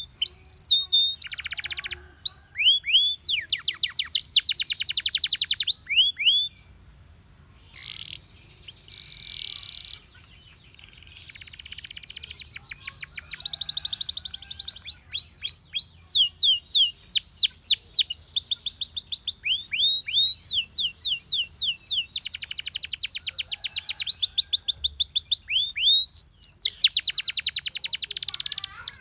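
Domestic canary singing: fast rolling trills of rapidly repeated notes alternating with quick downward-sweeping whistled notes, with a brief softer lull about seven seconds in.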